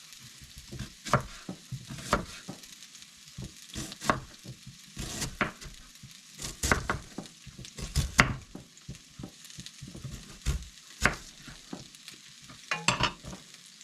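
Food sizzling in a frying pan, with irregular sharp knocks and clacks of an onion being sliced, the loudest about eight seconds in.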